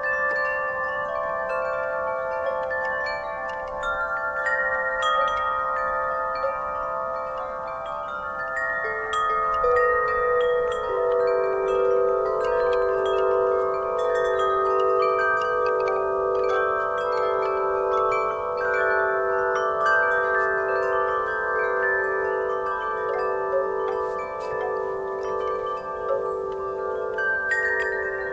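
Wind chimes ringing in a breeze: many overlapping, long-sustained metallic tones struck irregularly and often, their ringing pulsing as it fades. Some lower tones join about nine to eleven seconds in.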